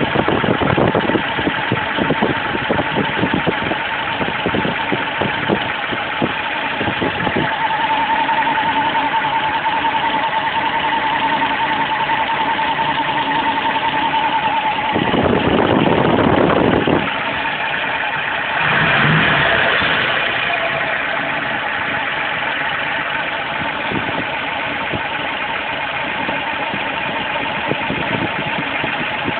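Car engine running with a strange noise from the accessory belt drive, which the owner suspects is the belt tensioner. Rapid ticking for the first several seconds, then a steady high whine, with a louder stretch partway through.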